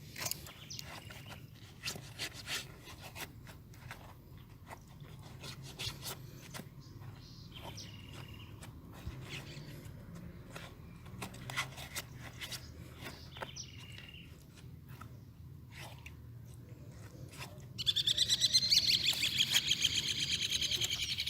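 Scattered clicks and knocks with a few short, high bird chirps. About 18 seconds in, a loud, rapid, high-pitched pulsing trill starts.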